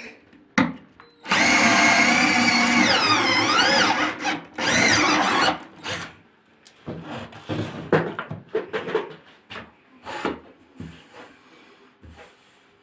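A handheld power tool runs in a burst of about two and a half seconds, its pitch dipping and coming back up partway through, then runs again briefly. Scattered knocks and clatter follow.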